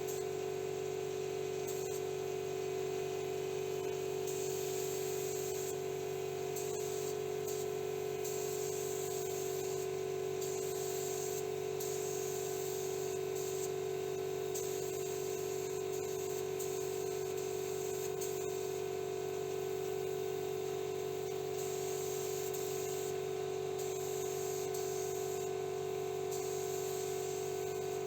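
Paint spray gun hissing in repeated passes of one to three seconds as clear coat is laid on car body panels, over a steady motor hum.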